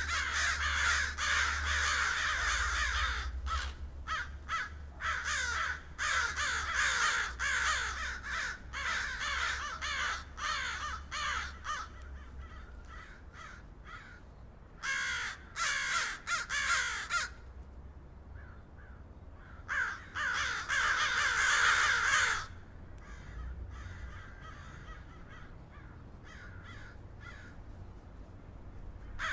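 Many crow-family birds cawing over one another in loud clusters of a few seconds each, with fainter scattered calls near the end. A low steady rumble runs underneath.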